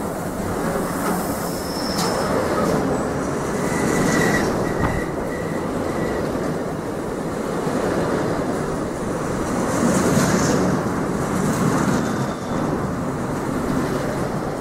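A train running past on the rails, with steady wheel-and-rail rumble and clatter. A thin, high wheel squeal comes and goes a few seconds in.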